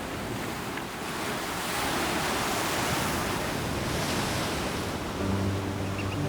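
Sea waves surging and breaking: a wash of surf that swells about a second in and eases off near the end.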